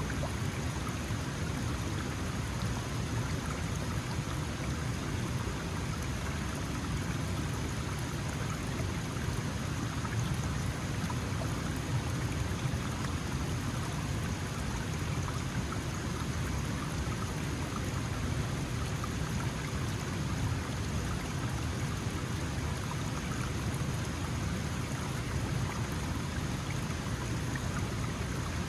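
Small mountain stream flowing steadily over rocks, an even rush of water with no breaks.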